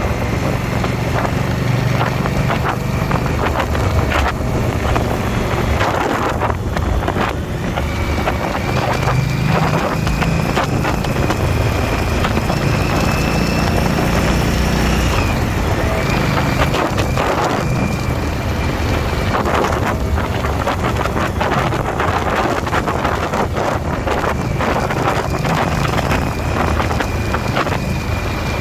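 Motorcycle engine running steadily at road speed, with heavy wind buffeting on the microphone and a faint steady whine above it.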